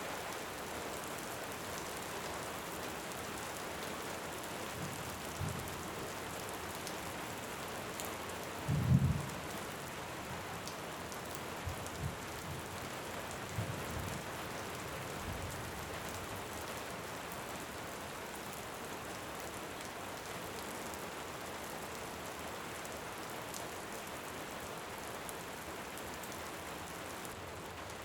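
Steady rain with distant thunder: a low rumble about nine seconds in, the loudest sound, and a few softer rumbles over the next several seconds. Faint crackles from a wood fire now and then.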